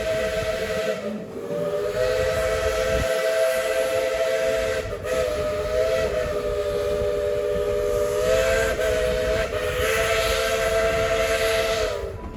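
Tweetsie Railroad's narrow-gauge steam locomotive No. 12 blowing its chime whistle, a three-note chord held in one long blast. The blast dips briefly a few times and sags in pitch as it shuts off near the end.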